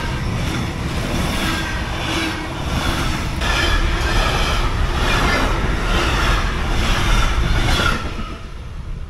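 Passenger train passing at speed a couple of metres away: a loud rush with a regular beat a little under twice a second. It grows louder partway through and dies down near the end.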